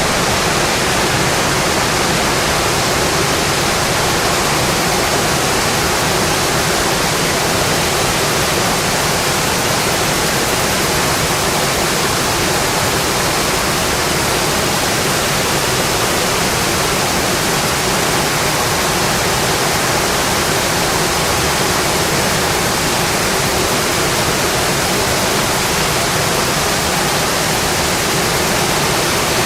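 Steady rain falling on a metal roof, a dense, even wash of drops with no letup.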